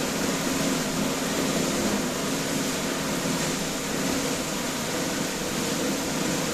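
Steady hum and hiss, like a running fan or similar machine, with no clear breaks or impacts.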